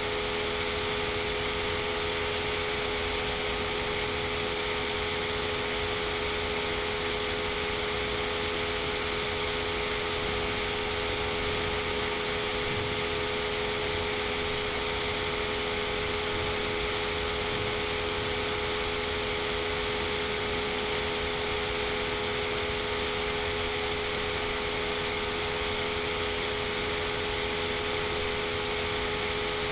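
Steady background hum and hiss with a few constant low tones, unchanging throughout.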